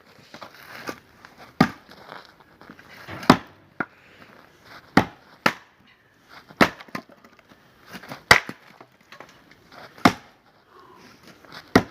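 An axe repeatedly striking and splitting big firewood rounds: about eight sharp, hard blows, one every second or two. The wood is not yet frozen, so it splits with difficulty.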